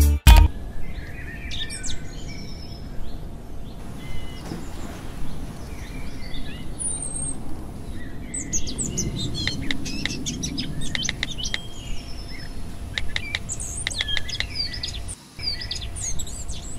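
Small birds chirping and calling, with many short, quick chirps and rising notes, over a low steady background rumble.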